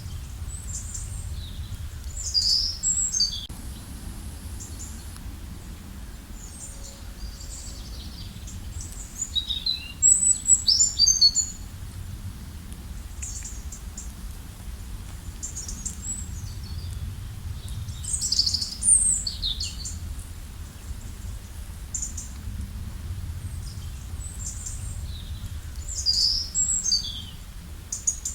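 Songbirds singing short phrases of quick, high, sweeping chirps in four bursts roughly eight seconds apart, the loudest about ten seconds in, over a steady low rush of running water.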